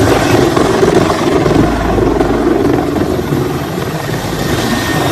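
Helicopter sound: steady, loud rotor and engine noise.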